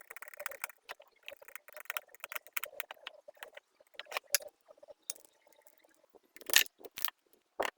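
Irregular light clicks and taps of plastic parts being handled and fitted, with a louder knock about six and a half seconds in and another near the end.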